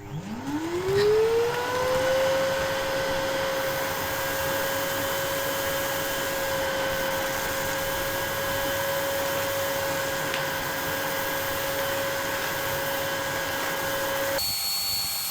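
Vacuum cleaner switched on, its motor spinning up over about two seconds to a steady whine, then running steadily while sucking up snow. Near the end the sound changes abruptly.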